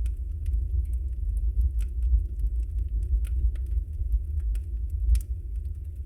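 Wood fire burning in a fireplace: a steady low rumble of the flames with scattered sharp crackles and pops, the loudest pop about five seconds in.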